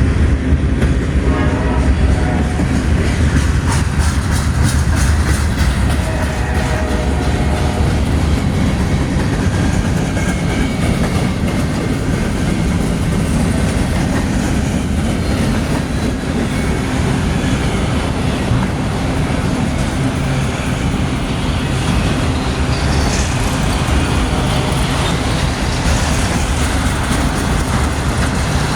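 Freight cars of a passing manifest train rolling by in a steady heavy rumble, with wheels clicking over rail joints, most plainly in the first several seconds.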